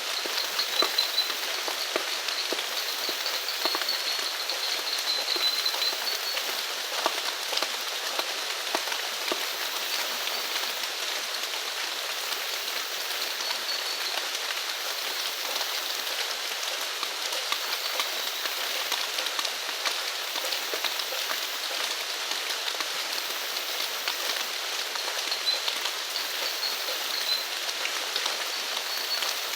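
Steady rain falling, with many individual drops ticking close by. A faint high-pitched animal call comes and goes in the background.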